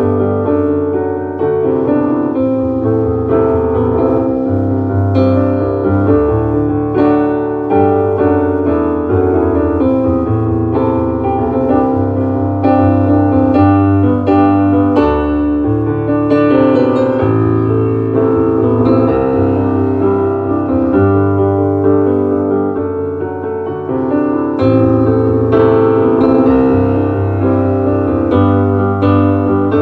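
Instrumental piano music: a slow song played as chords and melody over low bass notes that are held for a few seconds each.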